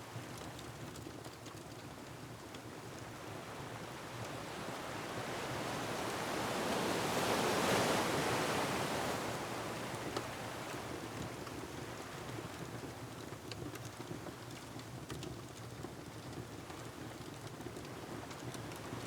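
Ocean surf washing against a rocky shore, with wind: the rushing noise builds into one big surge about eight seconds in, then eases back. Faint, sparse crackles from a wood fire sound through it.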